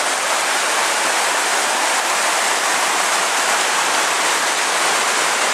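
Storm runoff rushing down a street in a steady torrent of water, a street with no drainage channel to carry it.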